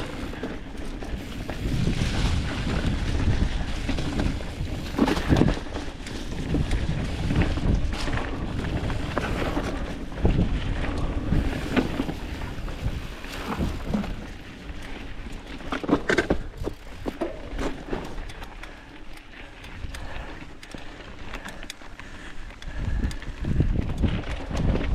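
Specialized Status 160 mountain bike riding downhill on a dirt trail: wind buffeting the microphone over the rumble of the tyres, with frequent irregular knocks and rattles as the bike hits bumps.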